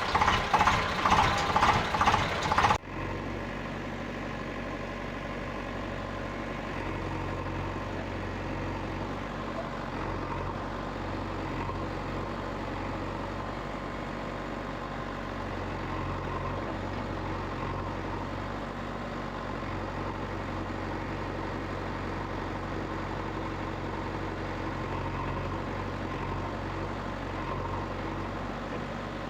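A loud pulsing engine sound, about two or three beats a second, cuts off suddenly about three seconds in. A steady, low vehicle engine idle runs on after it.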